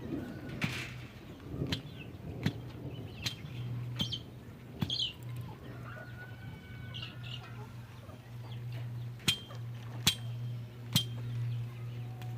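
Birds calling in short chirps, with sharp clicks scattered throughout and a steady low hum underneath.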